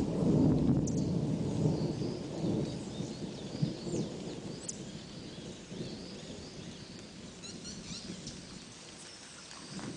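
A long roll of thunder rumbling and fading away over several seconds, with birds chirping faintly through it.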